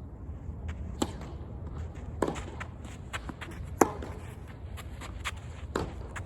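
Tennis rally: sharp racket strikes on the ball roughly every one and a half to two seconds, with fainter ball bounces and footsteps in between.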